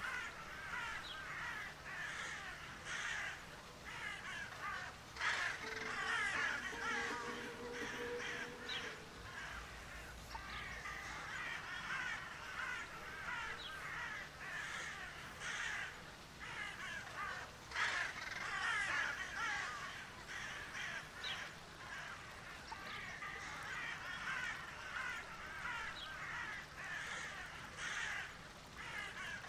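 Crows cawing repeatedly, many harsh calls overlapping over a steady chatter of calls.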